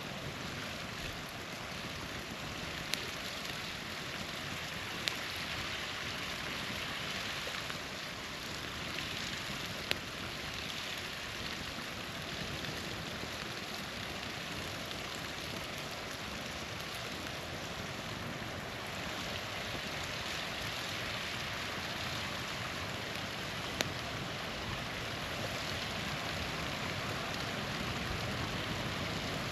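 Small waterfall rushing steadily, with four sharp pops from a wood campfire scattered through it.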